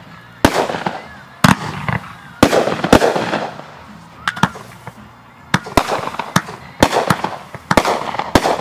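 Fireworks bursting in the air: a string of about ten sharp bangs, each trailing off, with a lull of about two seconds in the middle.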